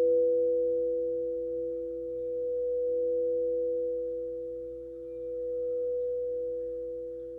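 Quartz crystal singing bowls ringing together in two steady pure tones, one higher than the other, the sound swelling and fading about every three seconds.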